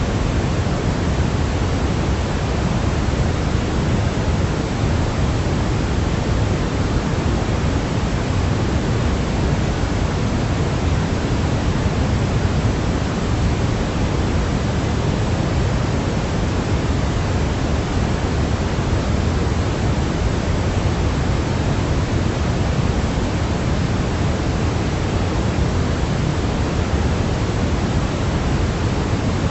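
Steady, unchanging synthetic noise, weighted toward the low end like pink noise, played as a baby sleep aid.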